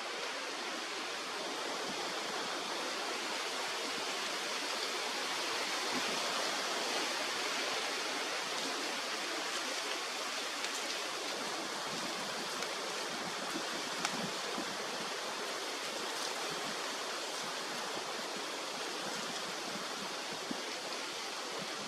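Steady rushing of a river or stream, an even wash of flowing water, with a few faint ticks after the middle.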